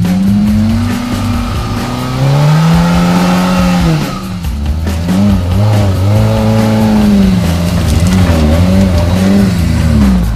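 Small off-road 4x4's engine revving up and down under load on a steep dirt climb: one long rise and fall, then a run of quick repeated throttle blips, with rock music underneath.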